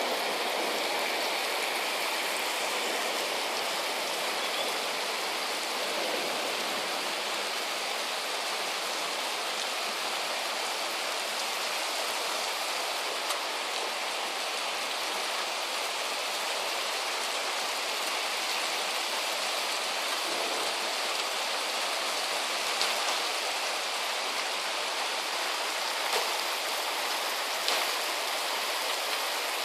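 Heavy rain falling steadily, with a few brief louder drips or splashes now and then.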